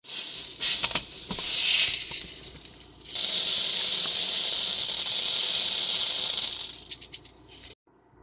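Silica granules sifting through the mesh of a 3D-printed plastic scoop: a few short rattling shakes, then a steady hissing rush for about four seconds that thins to scattered clicks and stops.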